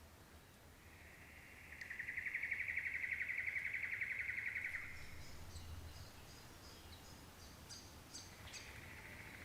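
Rainforest wildlife calling: a rapid buzzing trill swells in and holds for about four seconds. A run of faint, short, high chirps follows, and the trill starts again more softly near the end.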